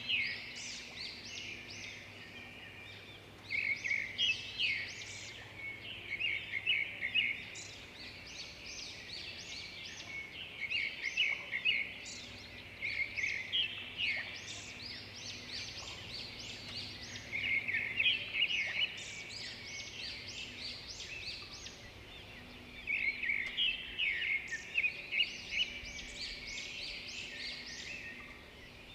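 Small birds chirping and twittering in quick, high notes, coming in bursts of a few seconds several times over, with short quieter gaps between.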